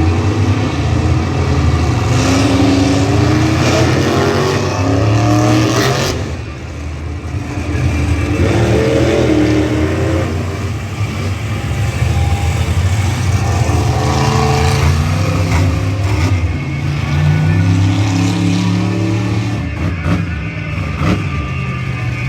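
Monster truck engines revving loudly over and over, each rev climbing in pitch and falling back, over a steady low engine drone.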